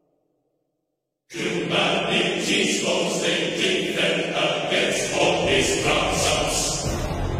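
Silence, then about a second in, choral music starts abruptly: a choir singing over dense, pulsing accompaniment.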